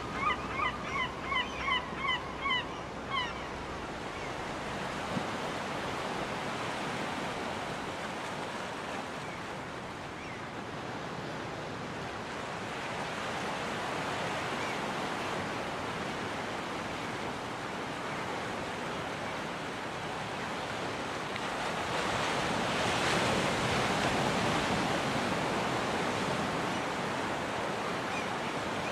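Ocean surf washing onto a beach with a steady hiss, swelling louder as a wave breaks a little past two-thirds of the way through. At the start a gull gives a quick run of repeated calls, about three a second, which stop after about three seconds.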